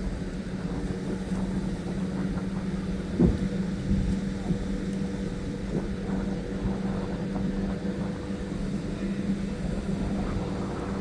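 Boat engine running with a steady low drone over a rumbling low noise, with a couple of short knocks about three and four seconds in.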